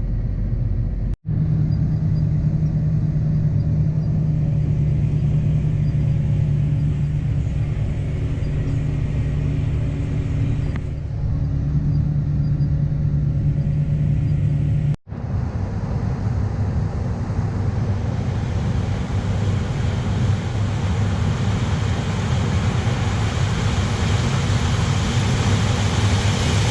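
Engine of heavy harvest machinery running steadily with a low hum, broken by two abrupt cuts about a second in and about fifteen seconds in.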